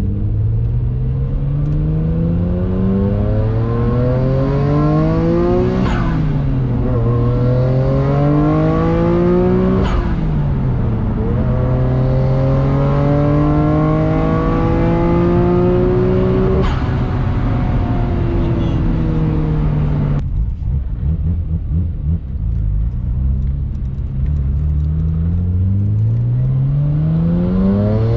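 Nissan Skyline R33 GT-R's twin-turbo RB26DETT straight-six, fitted with bigger-than-stock turbos and an HKS titanium exhaust with a straight pipe, pulling hard through the gears of its manual gearbox. The revs climb steadily and drop at each upshift, about six, ten and seventeen seconds in. The engine goes quieter off the throttle for a few seconds, then climbs again near the end.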